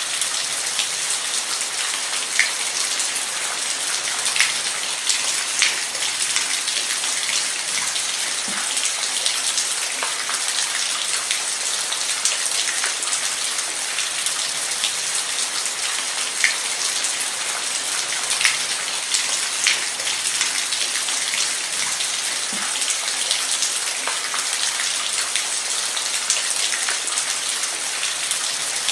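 Steady rain falling on a surface, a continuous hiss with scattered close drops landing as sharp taps. No thunder.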